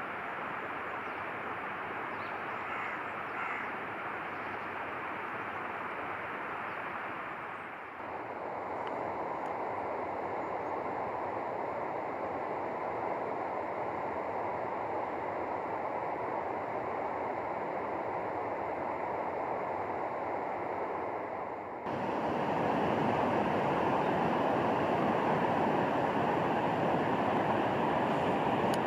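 Steady rushing of flowing water, such as a stream, with no distinct events. It shifts abruptly about a third of the way in and again near the end, when it becomes louder.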